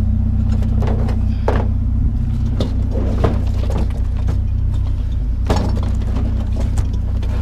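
Vehicle engine idling steadily, with scattered knocks and clatter over it from scrap items being handled.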